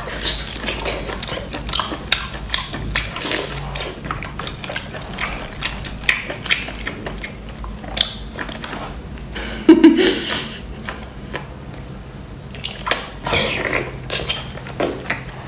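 Close-up chewing and biting of whole baby octopus: a steady run of wet clicks and smacks from the mouth, with one louder thud about ten seconds in.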